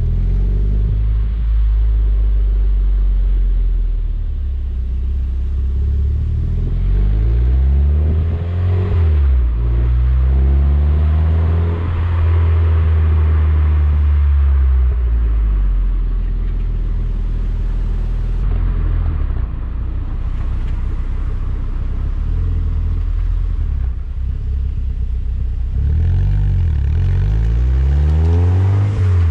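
Mazda MX-5 NC's 1.8-litre four-cylinder engine running through an IL Motorsport aftermarket exhaust, a steady low note with the revs climbing and dropping a few times about eight to twelve seconds in and again near the end.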